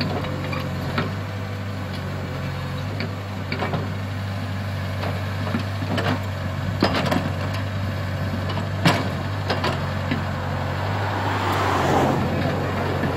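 Komatsu PC75 hydraulic excavator's diesel engine running steadily at working speed, with several sharp clanks and knocks from the machine at work. A rushing noise swells near the end.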